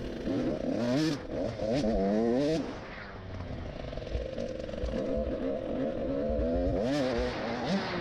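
Small motocross bike engine revving up and down repeatedly, its pitch rising and falling with the throttle, with a lull after about three seconds before it picks up again.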